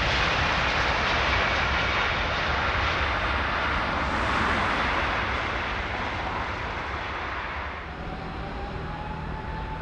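Jet airliner passing, its engine noise carrying a high whine that glides slightly down and slowly fades, dropping off about eight seconds in.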